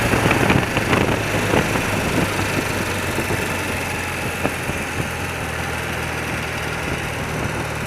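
Old BMW motorcycle's engine running steadily under way, easing off over the first few seconds and then holding an even note.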